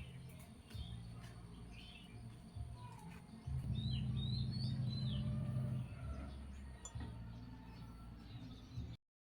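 Small birds chirping in short high calls over a steady low hum, which grows louder for about two seconds midway. The sound cuts out abruptly near the end.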